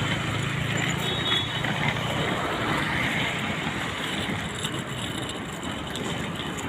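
Motor vehicle running on the road: steady engine and road noise, with a low hum that fades in the first second or two.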